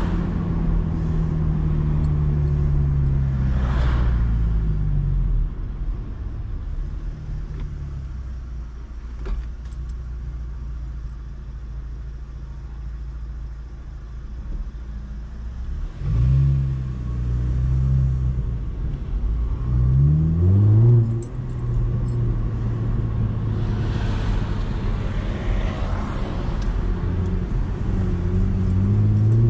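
Chevrolet Camaro engine heard from inside the cabin. It slows with falling revs and settles to a quieter steady idle, then pulls away about halfway through with the revs climbing, drops at a gear change, and runs steadily before rising again near the end.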